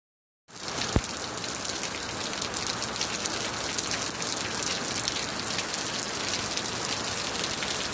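Steady heavy monsoon rain, a dense patter of drops, starting about half a second in. A single sharp knock sounds about a second in.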